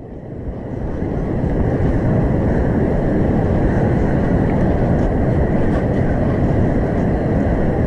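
Steady low rumble of breaking ocean surf and wind on the microphone. It dips briefly at the start, then swells back up.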